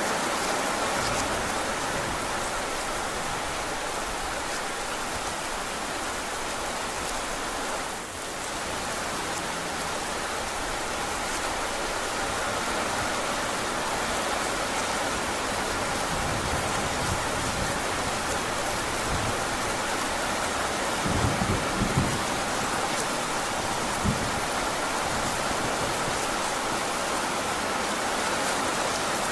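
Heavy rain falling steadily as a dense, even hiss, with a brief dip about eight seconds in and a few short low thumps about three-quarters of the way through.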